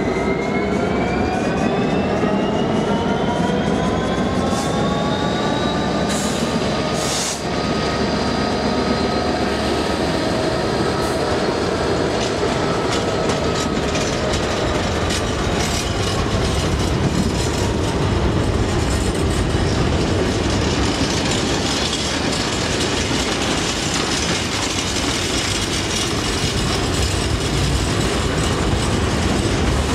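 Class 66 diesel locomotive's two-stroke V12 engine climbing in pitch over the first several seconds as it pulls away. Then a line of empty log wagons rolls past with a steady rumble and clatter of wheels over the rail joints.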